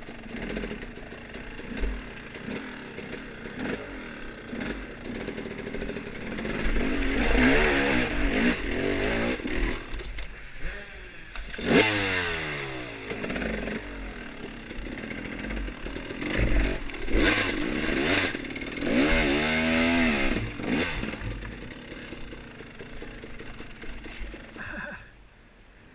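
Off-road dirt bike engine on a woods trail, revving up and down as the throttle is worked. It climbs, drops sharply, and climbs and falls again, over rattling and wind noise from the ride, before easing off near the end.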